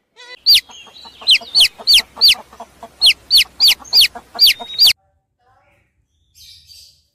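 Domestic chicks peeping: about a dozen loud, high, sharply falling peeps in quick succession over about four seconds. A short faint rasp follows near the end.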